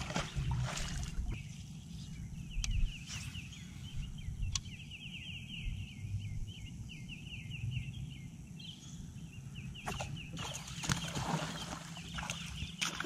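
A bird calling in a long, rapid chattering series of short sweeping notes, broken by brief pauses, over a steady low outdoor rumble. Near the end, bursts of rushing noise.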